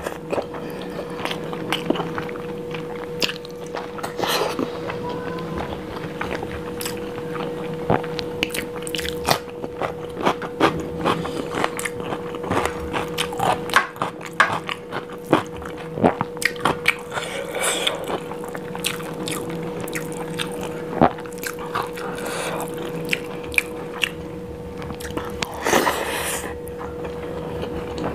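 Close-miked chewing of paneer biryani and potato eaten by hand: wet mouth sounds with many short clicks and smacks, and fingers working the rice on the plate, over a steady faint hum.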